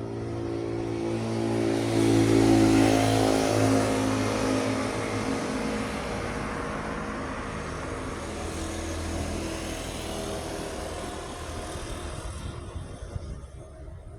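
Large truck passing close by, its engine and tyre noise building to a peak about two to three seconds in, then fading away.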